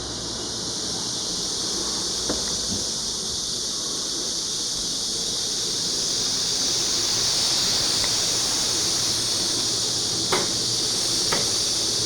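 Steady high-pitched insect chorus, with a few light clicks or knocks, two of them near the end.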